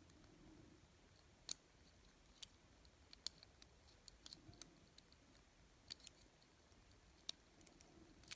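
Near silence with faint, scattered small clicks, about eight of them spread unevenly, from handling the small plastic and metal parts of an N scale locomotive frame and decoder board.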